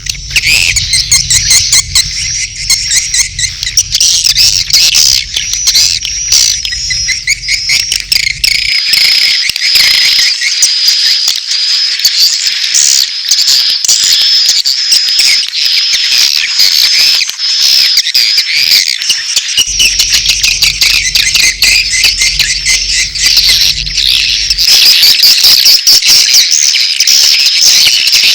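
Swiftlet lure call recording: a dense, continuous twittering chatter of swiftlets, mixing mating calls and chick calls. A low hum runs underneath for the first third and again for a stretch after the middle.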